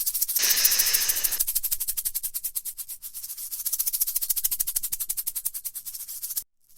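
Rattlesnake shaking its tail rattle: a fast, even buzzing rattle of keratin segments, the snake's warning to back off, with a louder hissy surge about half a second in. It cuts off suddenly near the end.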